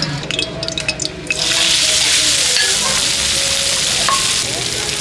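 Acacia shoots frying in hot oil in a wok and stirred with a ladle. A few light clicks, then a loud sizzle starts sharply about a second in and keeps going.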